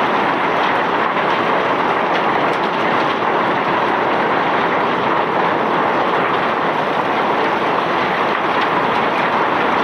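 Self-unloading barge's conveyor discharging bulk ore and rock: a steady, even rattling rush of machinery and moving stone.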